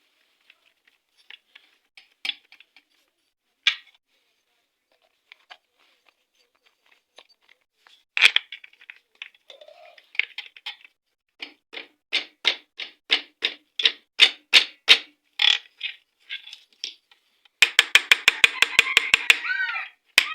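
Metal tools and engine parts clicking and knocking as the balancer is fitted into a Honda Shine engine. Scattered light clicks give way to a run of regular knocks, about two a second. Near the end comes a fast run of about six strokes a second over a steady buzz.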